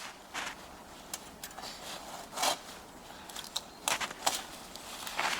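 Irregular snaps, clicks and scrapes of wooden branches being handled and broken, a dozen or so short sharp sounds at uneven intervals with no steady sawing rhythm.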